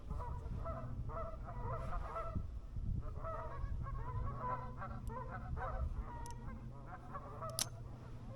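Geese honking, many short calls overlapping through most of the stretch, with a sharp click near the end.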